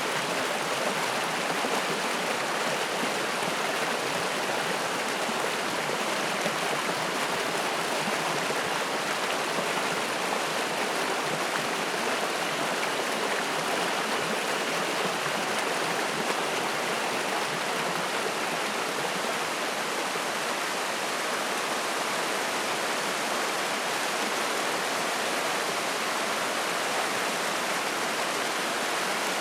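A spring-fed mountain stream rushing and splashing over rocks, a steady even rush of water.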